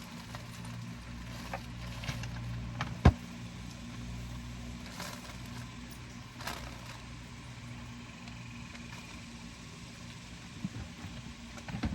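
Steady low hum of an idling motor, with one sharp click about three seconds in and a few fainter knocks.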